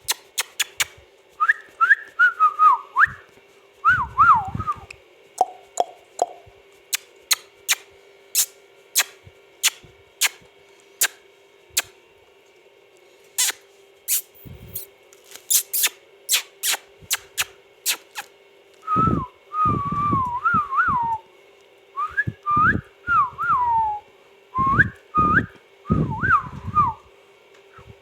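Indian ringneck parakeet whistling in short phrases that swoop up and down, a few seconds of them near the start and more through the last third, among many sharp clicks.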